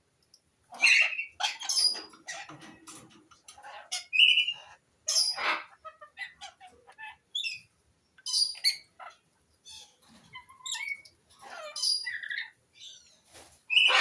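Male Alexandrine parakeet chattering and squawking in short, irregular bursts with brief pauses, vocalizing while in breeding condition.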